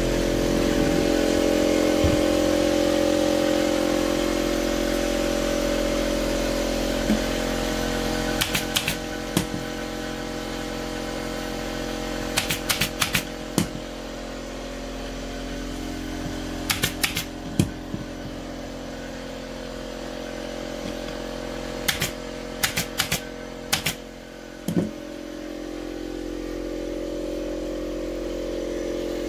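A motor running steadily, its hum slowly fading and swelling, with short clusters of sharp clicks every four or five seconds.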